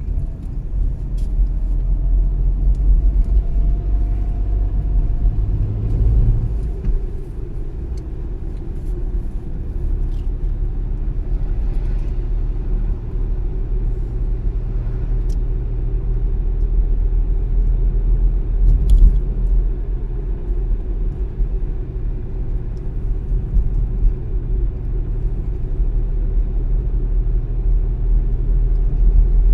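Car on the move: steady low rumble of engine and tyres on the road, with a faint rising whine from about two to six seconds in.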